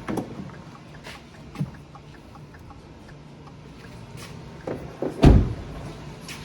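A row of faint, quick ticks from the 2014 Ford F150's turn-signal flasher during a turn-signal test. A knock comes just at the start and a heavy, loud thump about five seconds in, over a steady low hum.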